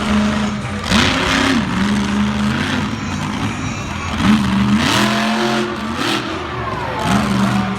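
Monster truck engine revving hard and dropping back several times, its pitch swooping up and down, with loud bursts about one, five and seven seconds in.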